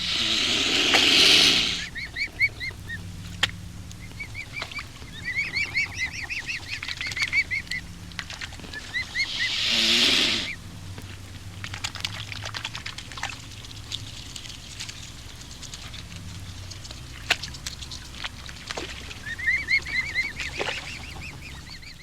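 A mute swan cob hissing loudly twice, near the start and about halfway through, while its cygnets pipe in runs of short, high, repeated peeps.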